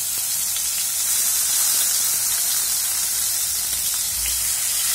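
Mashed boiled carrot sizzling in hot ghee in a kadai: a steady, loud frying hiss.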